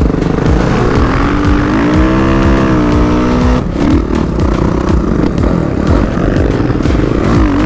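Dirt bike engine running hard while being ridden, its pitch rising and falling with the throttle. It drops off about three and a half seconds in, then climbs again near the end.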